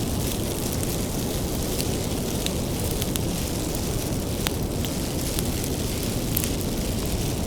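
Wood bonfire burning: a steady low rumble of flames with frequent sharp crackles and pops from the firewood.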